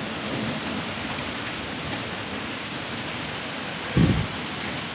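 Steady rain during a thunderstorm, an even hiss, with one short low thump about four seconds in.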